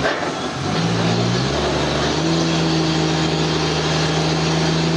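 Sawmill engine running: it rises in pitch about a second in, then holds a steady high speed.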